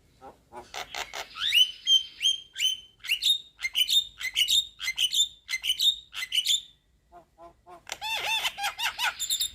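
Young Javan myna (jalak kebo) singing: a run of sharp chattering notes and short whistles, then a brief pause about seven seconds in before a fast run of harsh, rapidly repeated notes.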